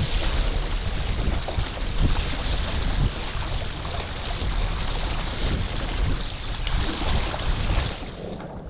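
Gusty wind buffeting the microphone on a small sailboat, with water rushing alongside; the gusts ease off near the end.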